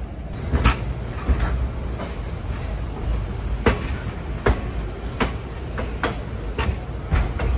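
Passenger train's low rumble with a series of sharp knocks every second or less as it moves slowly along the platform, typical of wheels clacking over rail joints or couplings taking up slack as a train pulls out.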